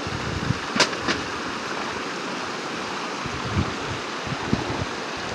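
Steady rush of high water after heavy rain, an even noise without any pitch. Two sharp clicks come about a second in, and a few short low thumps follow later.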